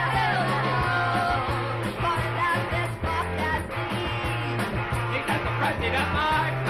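Rock band music with guitar and a steady beat, and voices singing.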